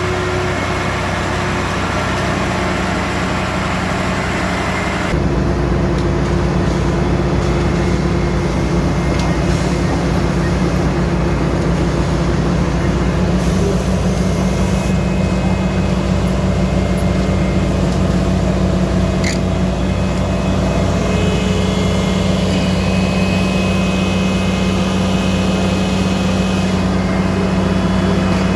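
Automatic curbstone-making machine running: a steady, loud mechanical hum that grows louder and heavier about five seconds in, then holds steady.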